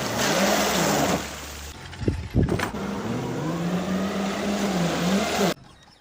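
Radio-controlled truck's motor running, its pitch rising and falling with the throttle over a steady hiss. There are a few sharp knocks about two seconds in, and the sound cuts off abruptly near the end.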